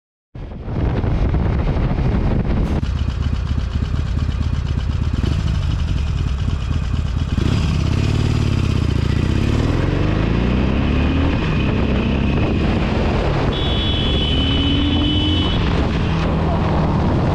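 Motorcycle riding, its engine revving up in rising sweeps through the middle over steady road and wind noise. A steady high tone sounds for about two seconds near the end.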